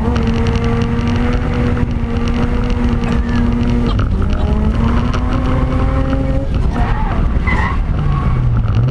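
Mazda RX-8's 13B Renesis rotary engine revving hard through a home-made exhaust during a drift, with tyres skidding. The engine pitch holds steady for about four seconds, climbs again after that, and dips then rises near the end.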